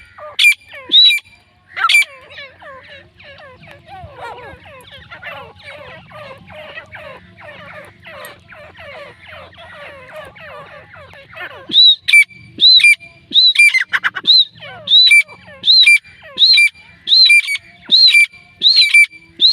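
Grey francolin (teetar) calling: loud, evenly repeated ringing call notes, about one and a half a second, at the start and again over the last third. In between is a long stretch of softer, rapid chattering calls.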